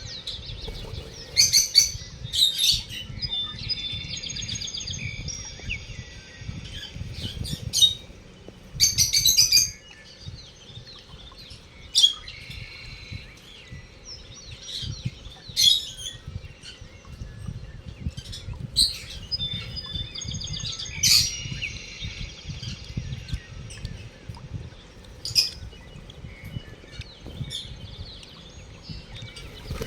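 Lovebirds chattering: short, shrill chirps come at irregular intervals, mixed with a few longer buzzy calls.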